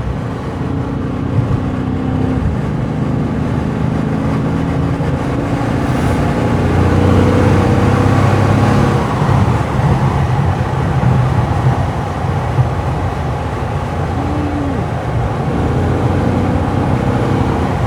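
Dodge Charger Scat Pack's 6.4-litre HEMI V8 running on its stock exhaust, not yet straight-piped, under light throttle in traffic. The steady low drone swells somewhat for a few seconds around the middle, then eases.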